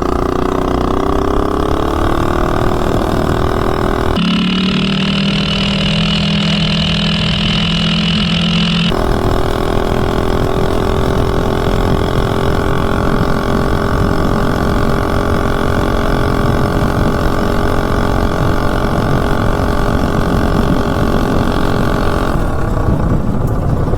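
Mini bike's single-cylinder Predator 212 four-stroke engine with a header pipe, running hard at wide-open throttle on a top-speed run. The pitch climbs slightly at first, the sound changes for a few seconds about four seconds in, then holds steady and high until the top end fades near the end.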